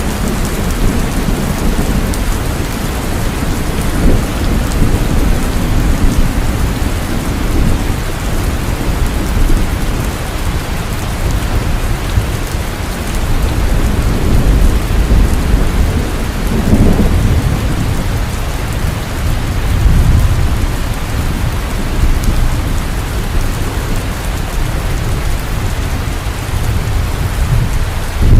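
Heavy rain falling steadily, with deep rolling thunder rumbling underneath that swells and fades, strongest about halfway through.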